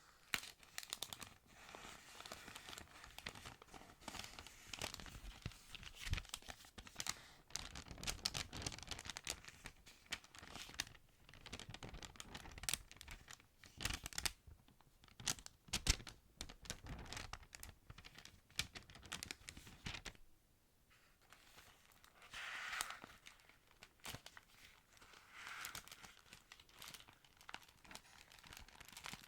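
Thin Bible paper being handled and pages turned close to the microphone: crinkling and rustling with many small sharp crackles. There is a brief lull about two-thirds of the way through.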